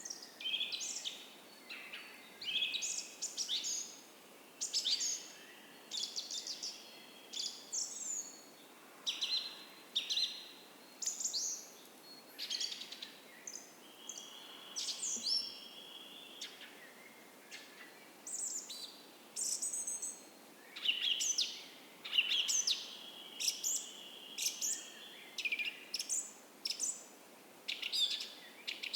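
Several songbirds singing in a dawn chorus: many short, high chirps and quick phrases, one after another, with a few longer held whistles, over a faint steady hiss.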